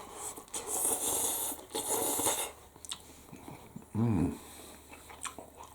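A man eating noodles makes two long breathy, hissing noises through mouth or nose, then a short hummed "mm" about four seconds in.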